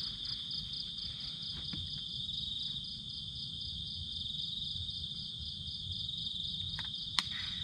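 Steady chorus of night insects such as crickets, a continuous high trill with a rapid pulsing just above it, over a low background rumble. A single sharp click comes near the end.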